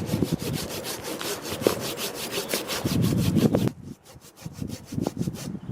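Hand saw cutting through a wooden log with quick, even back-and-forth strokes. The sawing stops briefly about two-thirds of the way through, then resumes with a few more strokes.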